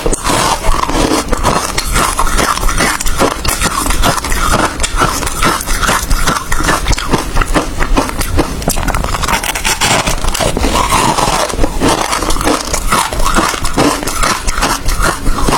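Close-miked chewing of crushed hard ice: rapid, loud crunching and cracking, one bite after another.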